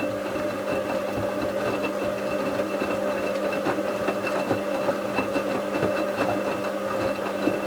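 Bauknecht WA 7778 W washing machine running a wash: its brushed drum motor hums and whines steadily while the drum turns, with small irregular knocks and rustling from the wet towels tumbling inside.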